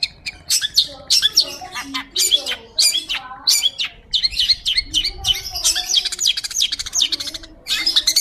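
Long-tailed shrike singing without pause: a fast run of sharp, high chirps and chattering notes with lower warbled notes mixed in.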